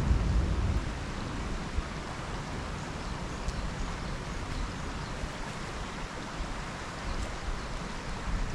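Wind buffeting the microphone in gusts, loudest in the first second, over a steady outdoor rushing noise.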